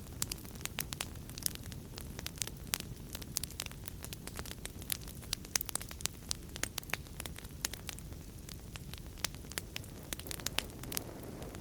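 Wood fire crackling in a fireplace: many sharp pops and snaps, several a second at irregular intervals, over a steady low rumble of burning.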